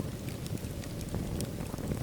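Wood fire burning in a fireplace: a steady low rumble of flames with a few faint scattered crackles.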